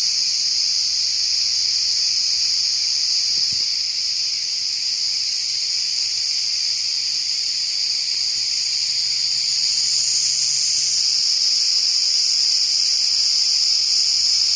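A dense chorus of crickets: a continuous high-pitched shrill trilling, growing slightly louder about two-thirds of the way through.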